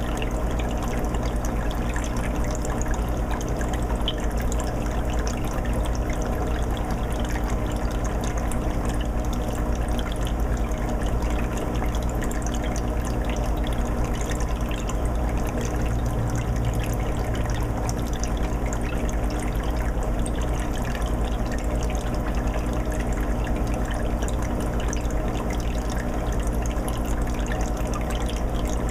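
A 20-gallon aquarium's water filter running steadily, with water trickling and bubbling into the tank over a low, even motor hum.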